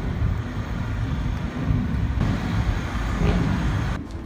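Low, dense rumble of motorcycle engines running, with a wavering pitch, dropping off about four seconds in.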